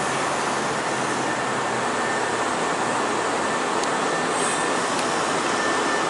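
Eight-car Senboku Rapid Railway 6300 and 6200 series electric train running into the platform: a steady rumble of wheels on rails, with a faint steady high whine.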